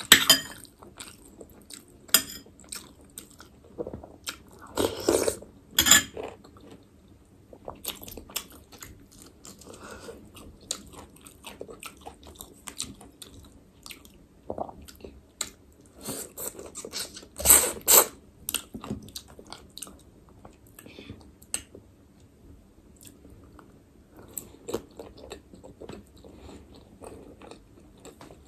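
Close-miked eating of chicken momos (steamed dumplings): chewing and biting with many short wet mouth clicks and smacks. The louder bites come about five to six seconds in and again around seventeen to eighteen seconds.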